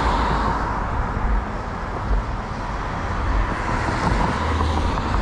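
Steady rolling noise from riding an Ecotric fat-tire e-bike, with wind rumbling on the microphone.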